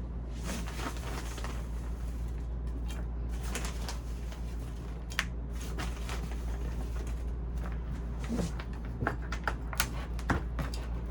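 Scattered light clicks, taps and rustling, as of plant pots and potting soil being handled, over a steady low hum.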